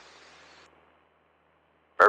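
Near silence: a faint steady hiss that cuts off suddenly under a second in, leaving almost nothing.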